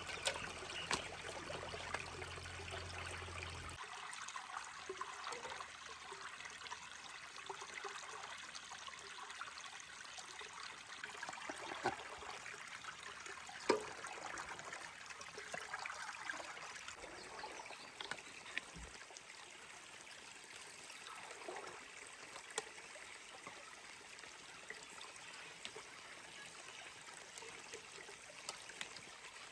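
Steady running, trickling water, with a few light clicks and knocks scattered through it. A low hum underneath stops about four seconds in.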